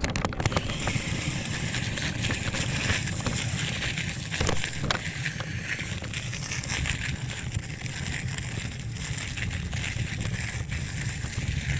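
Bicycle ride: wind buffeting the microphone with a steady low rumble, tyres rolling on pavement, and scattered small clicks and rattles.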